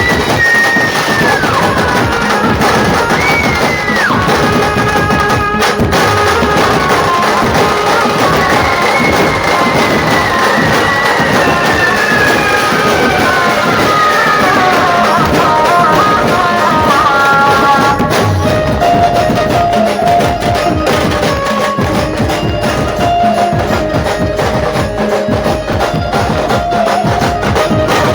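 Loud dhumal band music: dense, fast drumming under a sliding, bending lead melody that drifts downward, then holds steadier notes in the second half.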